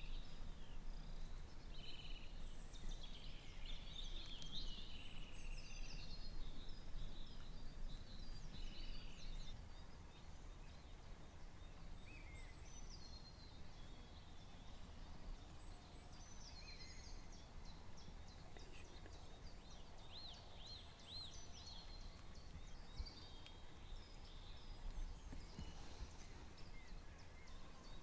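Faint birdsong and calls from several songbirds, busiest in the first ten seconds, with a quick run of repeated notes a little past the middle, over a low steady rumble.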